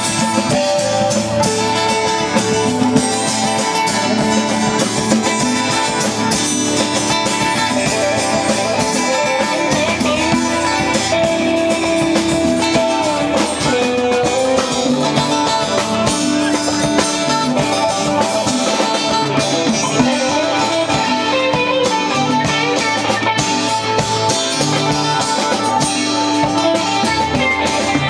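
Live band jam without vocals: guitars playing over steady drums.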